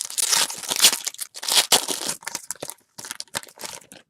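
A foil trading-card pack wrapper being torn open and crinkled, in a run of crackling rips that stops just before the end.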